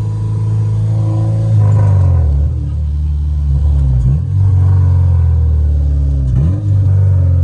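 Honda K20 four-cylinder engine in a K-swapped Civic running at idle, dipping in pitch and recovering three times. It is running on low fuel pressure (20 instead of 40), and the owner thinks it is running rich.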